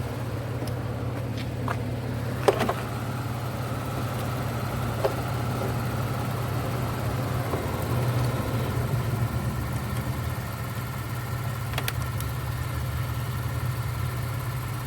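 A car engine idling steadily, with a few sharp clicks or knocks over it, the loudest about two and a half seconds in.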